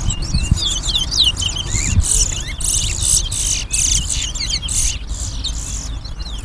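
Two caged male twa-twas (large-billed seed finches) singing against each other: quick runs of high chirps and gliding whistled notes, phrase after phrase, with the two birds' songs overlapping.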